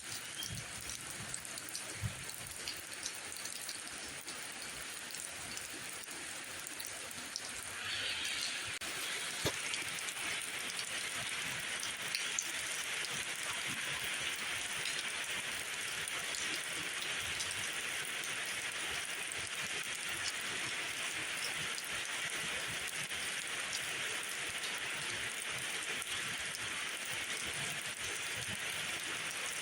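Steady rain falling, an even hiss with scattered sharp drop ticks; the hiss grows louder about eight seconds in and holds there.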